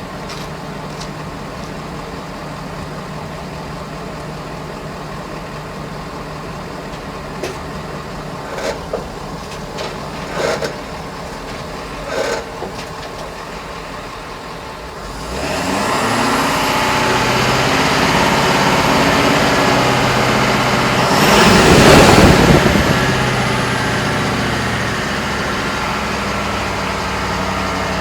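Ford 6.7L Power Stroke turbo-diesel V8 heard at the exhaust, idling steadily with a few short knocks, then revved up about halfway through. The revs are held, peak loudest a few seconds later and ease back, with a high whistle rising and falling along with them.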